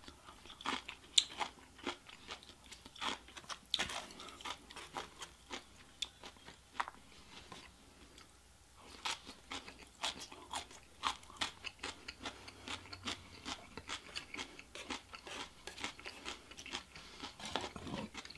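A person chewing a mouthful of Chinese takeout food close to the microphone, with many sharp clicks of crunching. The chewing eases off briefly about eight seconds in, then picks up again.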